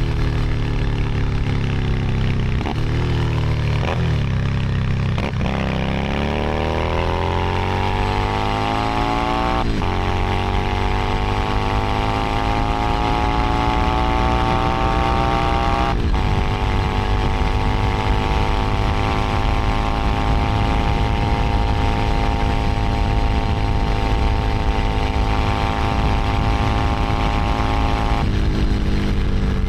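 Keeway SCR 250V's V-twin engine running through an aftermarket exhaust on the road. The engine note climbs from about six seconds in, dipping briefly at two gear changes, then holds steady at cruising speed and drops off near the end as the throttle closes.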